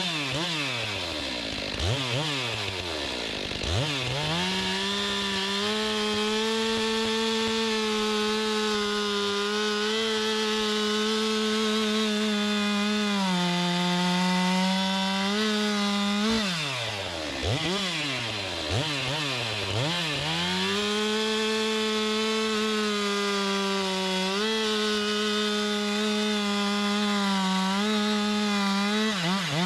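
Stihl MS 462 C chainsaw blipped through a few quick revs, then held at full throttle through two long cuts into a log, its pitch sagging slightly under load. The chain is a rock-damaged one, freshly resharpened and on test.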